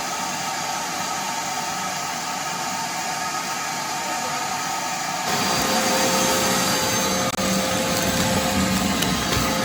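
Shop vacuum running steadily while sucking up soil and dirt. About five seconds in the sound changes abruptly, becoming louder and deeper.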